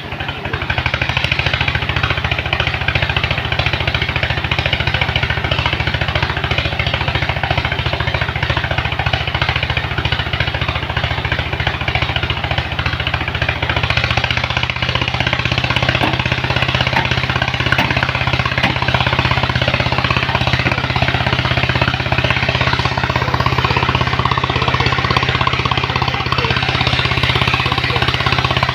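Truck engine running steadily at raised speed with a rapid, rattling pulse. It picks up just after the start, and its note shifts about halfway through.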